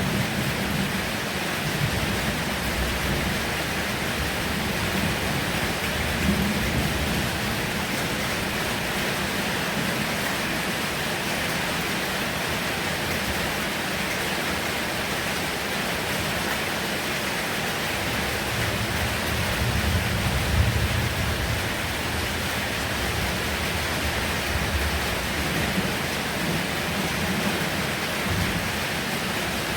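Heavy rain falling in a steady, even hiss, with low rumbles swelling now and then, the strongest about twenty seconds in.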